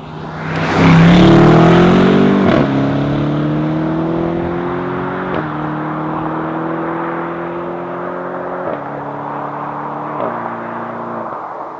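BMW M850i's 4.4-litre twin-turbo V8 accelerating at full throttle, loud from about a second in. The engine note climbs steadily through each gear and drops sharply at four quick upshifts of the eight-speed automatic.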